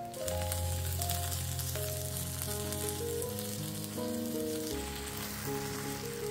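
Folded tortillas frying in oil in a nonstick pan, sizzling steadily, over soft background music with held notes.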